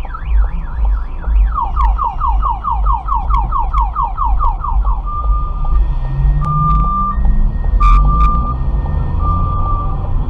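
Electronic car alarm cycling through its patterns: a fast up-and-down warble, then a run of quick falling sweeps about four a second, then steady beeping tones with gaps. A loud low rumble runs underneath.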